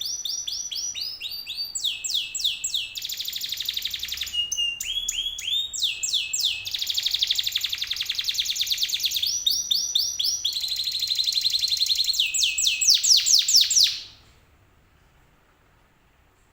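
Domestic canary singing a long, loud song of fast trills and rapid runs of repeated down-sweeping notes, which stops abruptly near the end.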